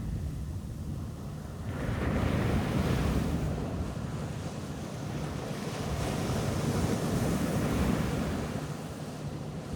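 Ocean surf breaking and washing up a beach, swelling about two seconds in and again later, with wind rumbling on the microphone.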